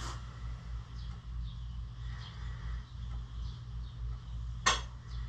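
A steady low hum with faint bird chirps over it, and a single sharp knock near the end.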